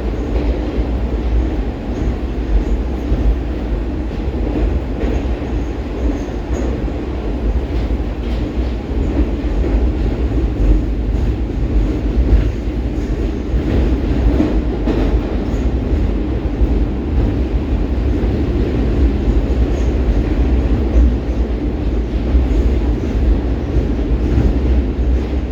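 Baltiets metro train heard from inside the car, running at speed between stations: a steady deep rumble of wheels on rail, with faint clicks from the track.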